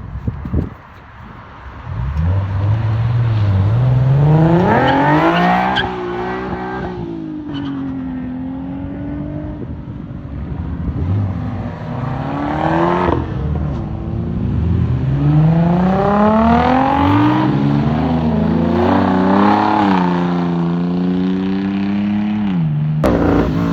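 Car engine revving: its pitch climbs and drops back about four or five times, holding steady in between.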